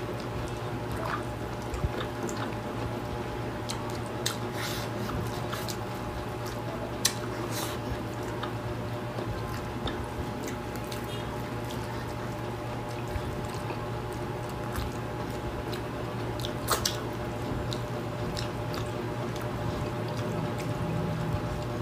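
Close-up mukbang eating sounds: wet chewing and mouth smacks as two people eat rice and fried fish by hand. A few sharp clicks stand out over a steady low hum.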